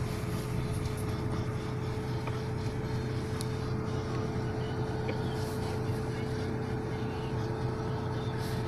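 A car engine running steadily, heard from inside the cabin as a constant low hum with a thin steady whine.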